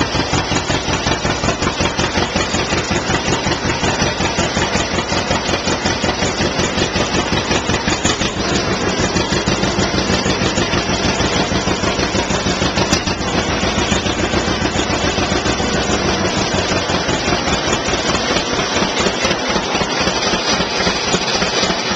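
1954 John Deere 60's two-cylinder engine running with its steady, even popping exhaust beat, warming up after a cold start in freezing weather.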